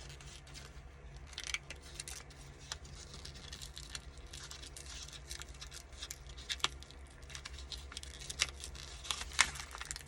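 A paper envelope being peeled apart by hand, its glued seams separating with small crackles, rustles and brief tearing, the sharpest crackle near the end.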